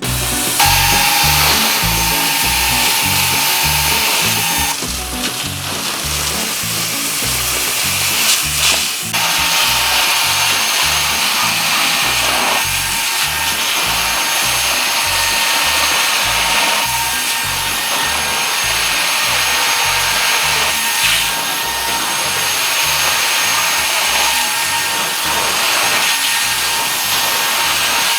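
Carpet extraction wand pulling water and soil out of carpet: a steady rushing vacuum hiss, with a thin whine in the first few seconds and a dip for a few seconds about five seconds in. Background music with a steady bass beat plays underneath.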